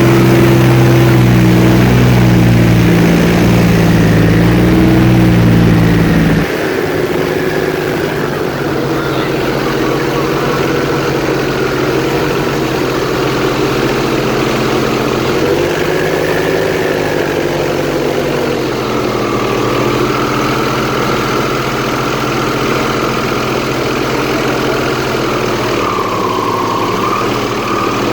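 Airboat's engine and propeller running loudly. Near the start the sound drops off to a lower level, and its pitch then drifts up and down as engine speed changes.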